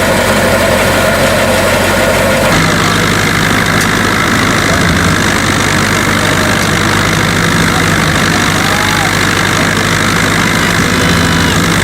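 A motor engine idling steadily, its pitch held. Its sound changes abruptly about two and a half seconds in.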